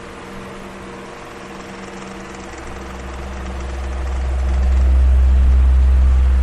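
Electric fan running with a steady motor hum and an airy hiss. A deep rumble from the fan's air buffeting the microphone swells up about halfway through and is loudest near the end.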